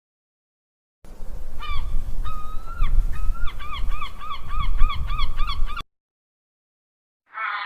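Geese honking: a few drawn-out honks, then a quick run of short honks about three a second, over a steady low rumble. The calls start about a second in and stop abruptly near the end.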